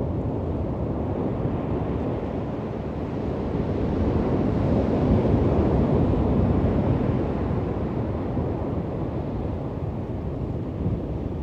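Waves on a beach: a steady low rush of surf that swells to a peak about halfway through and then eases back.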